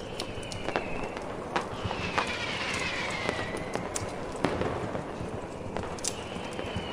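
Wood fire crackling, with irregular sharp pops and snaps over a steady rushing noise. Faint whistling tones slide downward in pitch: one near the start, a longer one in the middle, and one near the end.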